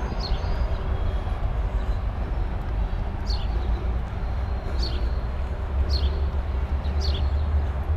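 A bird repeating a short, high, downward-sliding chirp about every second, over a steady low rumble.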